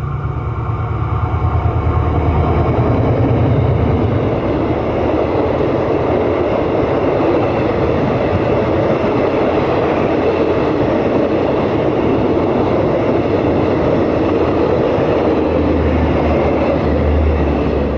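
Diesel-hauled passenger train passing close by: the locomotive's low engine drone in the first few seconds, then the steady rumble of the carriages rolling along the track.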